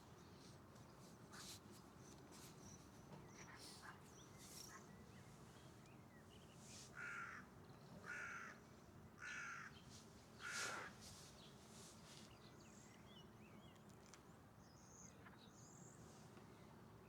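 A bird calling four times, about a second apart, over a quiet outdoor background with a few faint high-pitched chirps.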